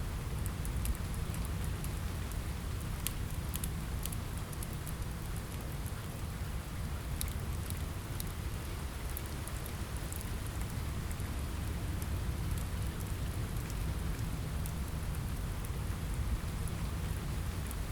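Steady rain with a low rumble underneath, and scattered sharp crackles of a wood fire.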